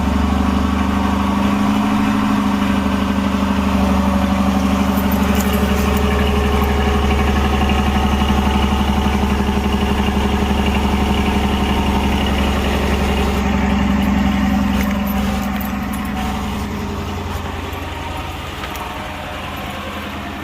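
Stock 2022 Dodge Durango R/T's 5.7-litre Hemi V8 idling fast on a cold start, just after firing up. The idle eases lower from about fifteen seconds in.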